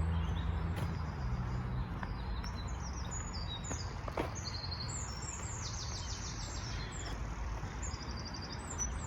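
Small songbirds singing short phrases of quick, high repeated notes, over a steady low rumble of traffic from a nearby main road.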